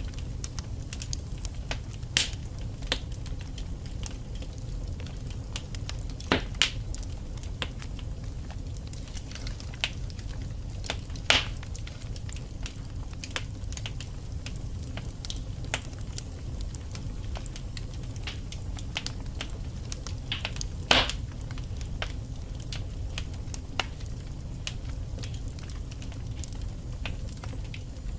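Wood fire burning in a fireplace: a steady low rumble of flames with irregular crackling, and a few louder pops from the burning logs.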